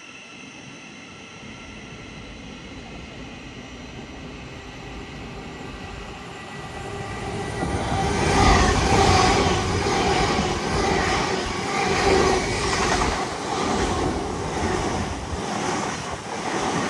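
Two coupled Hull Trains Class 803 Paragon electric multiple units passing through at speed. The sound swells as they approach over the first several seconds, then the wheels on the rails give a loud rushing clatter with repeated clacks.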